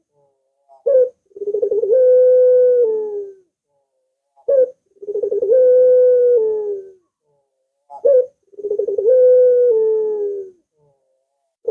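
Puter (Barbary dove) cooing: three calls a few seconds apart. Each is a short note, then a rolling coo held on one pitch that drops away at the end.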